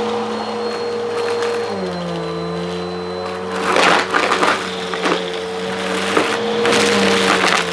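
Vacuum cleaner motor running with a steady whine that drops in pitch about two seconds in as its intake is blocked, with loud rattling and crunching around four seconds in and again near the end as a pair of headphones is sucked up and caught in it.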